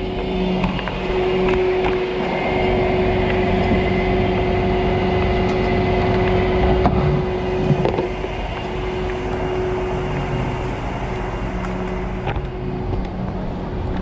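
Tow truck running steadily, a low engine rumble with a constant whine over it.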